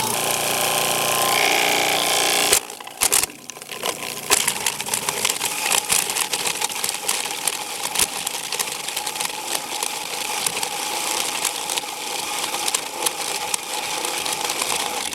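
3/4 hp InSinkErator garbage disposal grinding medium density fiberboard: the motor runs with a steady whine under a dense clattering rattle of chunks being chewed up. It is loudest for the first couple of seconds, dips briefly, then grinds on evenly and cuts off suddenly at the end.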